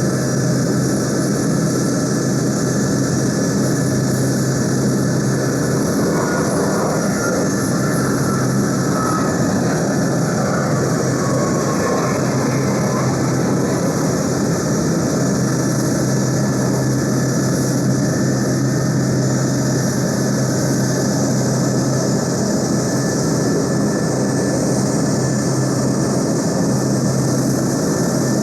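Boeing C-17A Globemaster III's Pratt & Whitney F117 turbofan engines running on the ground, a loud steady rush of jet noise. A faint whine shifts in pitch partway through.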